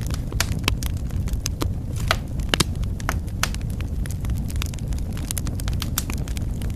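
Wood fire in a fireplace crackling: irregular sharp snaps and pops over a steady low rumble of the flames, with a louder pop about two and a half seconds in.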